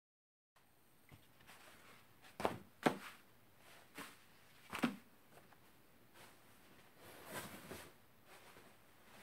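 Faint handling noises in a small room: a few separate knocks and thuds, two close together about two and a half seconds in, two more around four and five seconds, and a softer cluster near seven and a half seconds.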